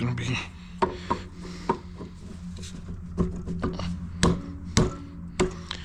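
Irregular sharp clicks and knocks, about ten of them, of hard parts and tools being handled and set down during work on a pressure washer, over a steady low hum.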